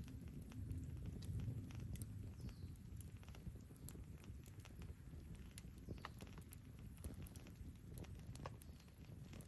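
Wood campfire burning, with irregular sharp crackles and pops over a low, steady rush.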